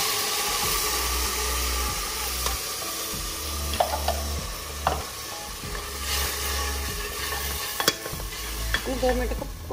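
Freshly ground onion-tomato paste sizzling loudly in hot oil in a pressure cooker, the masala starting to fry. A wooden spoon knocks and scrapes against the pot a few times as it is stirred.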